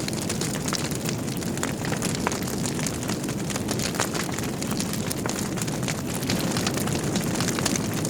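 Wood fire burning in a fireplace: a steady low rumble of flames with many sharp, irregular crackles and pops from the logs.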